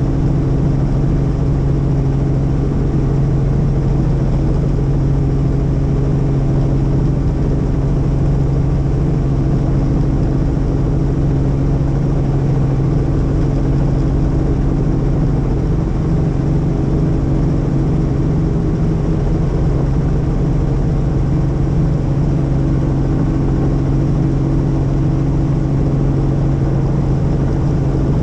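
Helicopter engine and rotor running steadily, a constant loud drone with a strong low hum.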